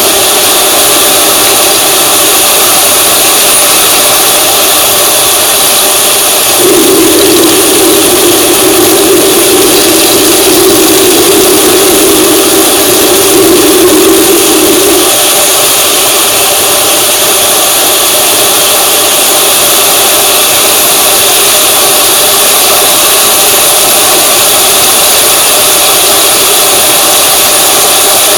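A vehicle engine running steadily, with a louder low hum for several seconds in the middle.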